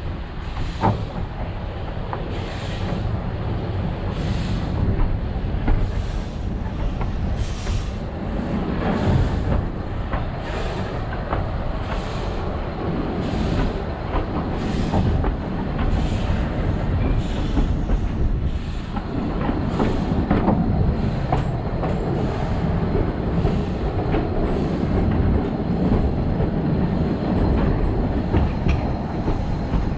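Narrow-gauge steam train of the Isle of Man Steam Railway running: a steady rumble with a regular beat about every second and a half that fades near the end.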